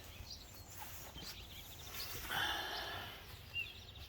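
Outdoor ambience: wind rumbling on the microphone, with a few short bird chirps near the end. About two seconds in, a brief louder rushing, breathy sound lasts just under a second.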